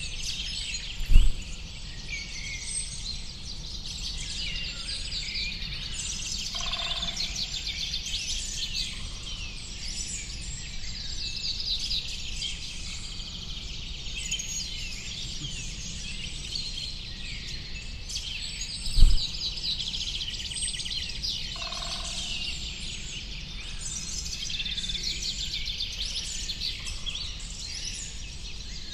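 A dense chorus of many small songbirds chirping and twittering over a low steady rumble, with a lower two-note call heard twice. Two short low thumps, one about a second in and one about two-thirds of the way through, are the loudest sounds.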